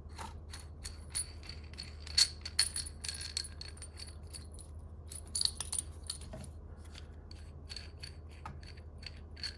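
Small steel parts of a harmonic balancer installer tool, its washers, thrust bearing, nut and bolt, clinking and tapping against each other as they are handled. The taps ring briefly and come in scattered clusters.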